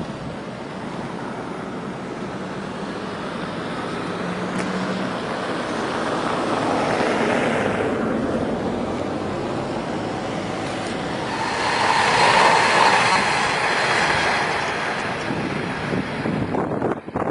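A train running past below at speed: a rushing rumble that builds, peaks about twelve seconds in and breaks off abruptly near the end.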